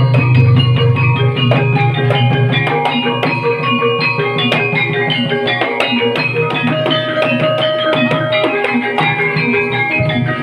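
Banyumasan gamelan music for an ebeg horse dance: quick runs of short struck, pitched notes over drums, played without a break.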